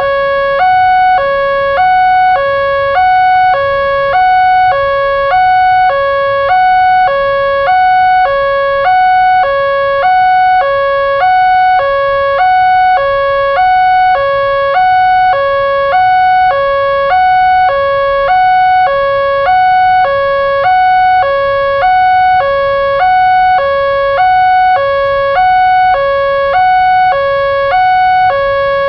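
Railroad level-crossing warning alarm sounding: an electronic two-tone signal alternating steadily between a lower and a higher note, each held about half a second. It warns that a train is approaching the crossing.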